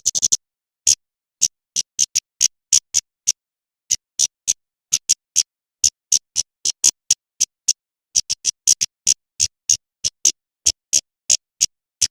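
Female kemade bird giving a long series of short, sharp, high chip calls, about three to four a second with uneven gaps and some quick doubles. It is the female call used as a lure to draw male kemade.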